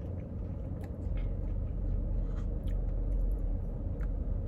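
Chewing and faint clicks of a spoon while eating a Blizzard with crunchy pecan pieces, over a steady low rumble.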